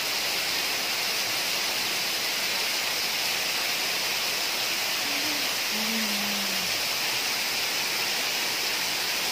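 Heavy rain pouring steadily onto a flooded street, a dense, even hiss.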